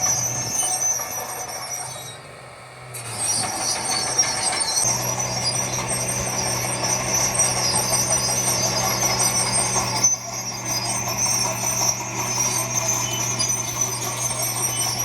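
Heavy diesel construction machinery running steadily, with a continuous high-pitched metallic squeal over the engine. The sound drops away for about a second, about two seconds in.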